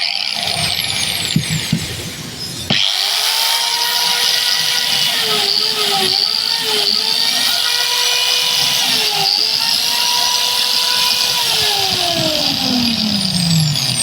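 Electric angle grinder, with its armature just replaced, switched on about three seconds in after a few knocks. It runs at a steady high pitch with a few brief dips, then is switched off and winds down with a falling pitch near the end.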